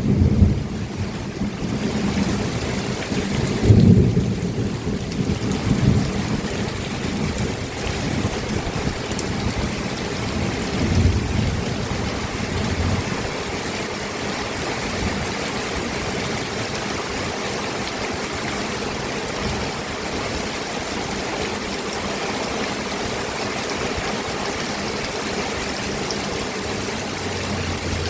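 Steady rain falling, with low rumbles of thunder several times in the first dozen seconds, the loudest about four seconds in; after that only the even hiss of the rain.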